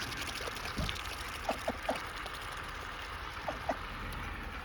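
Ducks feeding on scattered cracked sunflower seeds: a few short pecking clicks from their bills, in a cluster about a second and a half in and another pair near three and a half seconds, over a steady background hiss.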